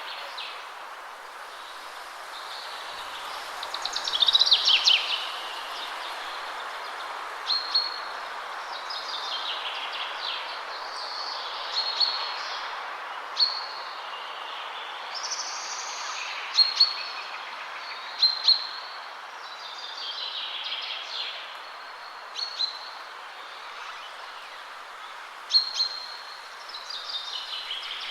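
Wind rushing steadily through trees, with small songbirds calling and singing over it: short high chirps and trills repeated every second or two.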